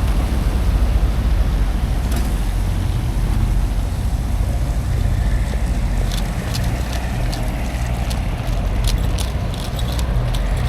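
Semi truck engine running with a steady low drone, with a scatter of light clicks in the second half.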